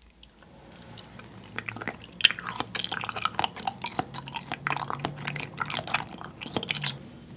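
Close-miked chewing of a piece of soy-sauce-marinated salmon, with many small mouth clicks from about a second in until near the end. The salmon flesh has firmed in the marinade and become chewy.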